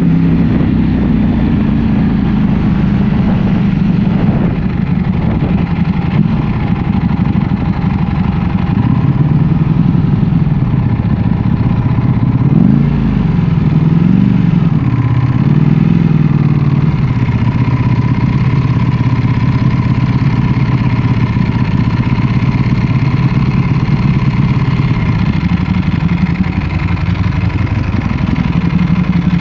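Ducati Panigale V4 S's V4 engine running at low, fairly steady revs while riding, with a few quick rises and falls in revs about halfway through.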